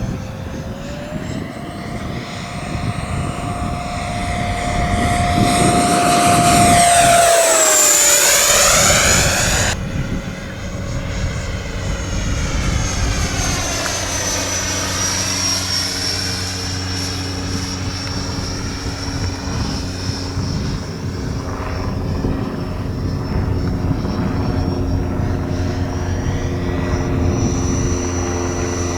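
Electric ducted fan of an RC model jet whining in flight. The whine rises in pitch about a second in and holds. Its pitch then drops sharply as the model passes close by, and the sound cuts off abruptly. Afterwards the whine comes back and falls in pitch as the model flies past again.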